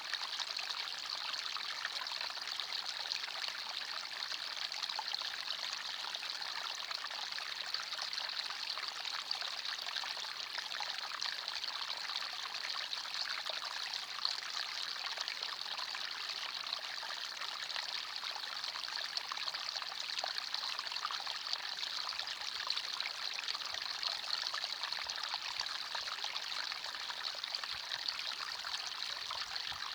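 Small forest stream flowing and trickling steadily over stones, a continuous bright babbling.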